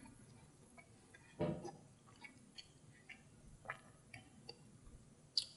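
Quiet sounds of someone eating a flaky fried pie: soft chewing and mouth noises, with one fuller low sound about a second and a half in and scattered small, irregular clicks as bits of crust are picked apart.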